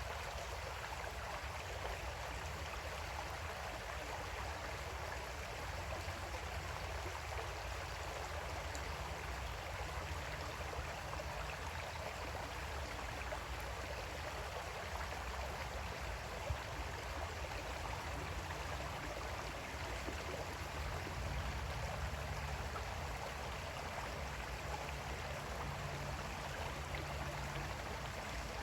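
Water flowing steadily in a small creek, an even, unbroken rushing and babbling.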